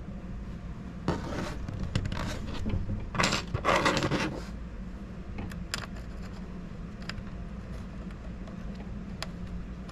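Small scraping and rustling handling sounds as a mounting screw is worked into place on a 3D printer's power supply, loudest about a second in and again around three to four seconds in, followed by a few light clicks.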